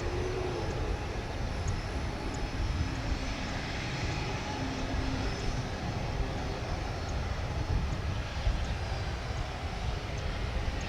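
Jet airliner engine noise, steady throughout, with wind buffeting the microphone.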